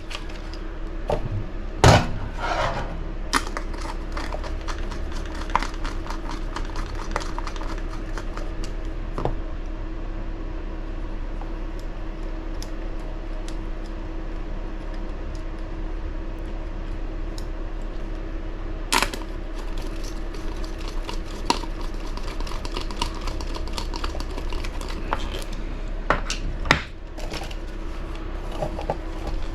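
Scattered light clicks and metallic clinks of small hardware and hand tools being handled while parts of a model buggy are screwed together, over a steady low hum.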